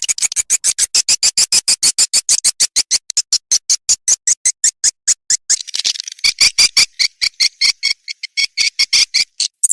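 Recorded swiftlet lure call, the twittering used to draw swiftlets into a nesting house: a rapid, even train of sharp chirps, about seven a second, with a denser buzzy twitter about halfway through.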